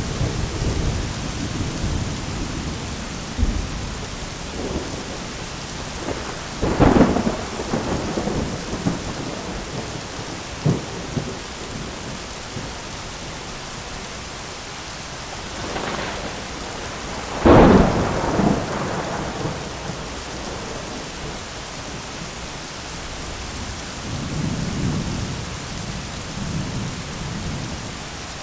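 Steady heavy rain with thunder. There are two sharp thunderclaps that roll on for a second or two, one about a quarter of the way in and a louder one just past halfway, with fainter cracks between them and a low rumble near the end.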